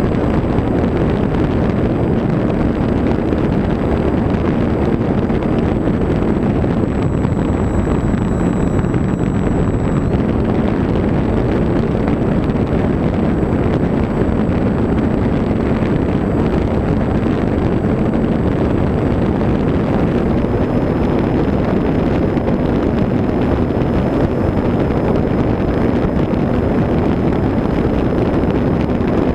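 Steady rush of wind on a GoPro microphone carried by a Techone Su-31 RC plane, mixed with the plane's motor and propeller running at an even pace, with a faint high whine above.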